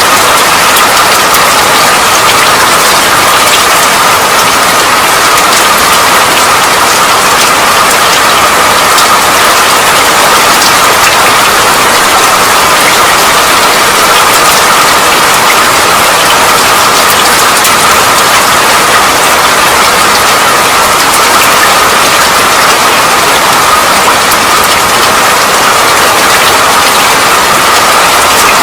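Steady, unbroken rain: an even hiss of falling rain with many small drop ticks scattered through it.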